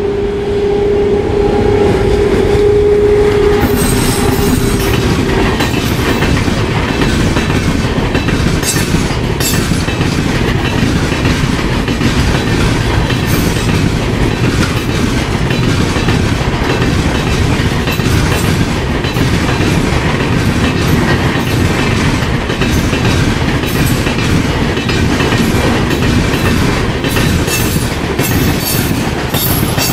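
An electric locomotive's horn sounds one steady note for about the first four seconds as the express approaches. Then the LHB passenger coaches pass close by at speed: a loud continuous rumble with the clickety-clack of wheels over rail joints, the clicks coming thicker near the end.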